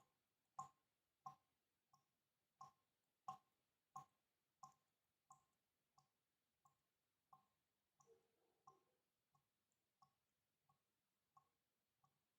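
Water dripping one drop at a time in a steady rhythm, about three drops every two seconds, each a short pitched plink. The drops are louder in the first half and softer toward the end.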